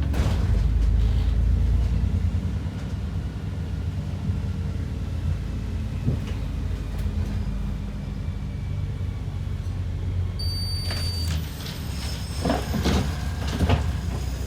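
Interior of an ADL Enviro 400 double-decker bus under way, its engine and running gear giving a steady low rumble. A short high tone sounds about ten seconds in, followed by a run of knocks and rattles near the end.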